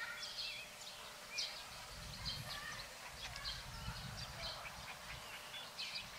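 Birds chirping: many short, high calls scattered throughout, over a low rumble.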